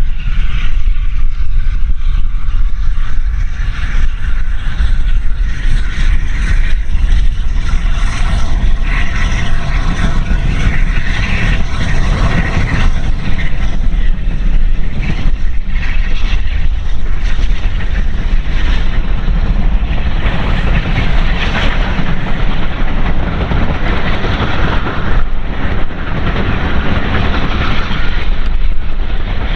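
Steam train passing, a steady heavy rumble of the locomotive and its rolling stock.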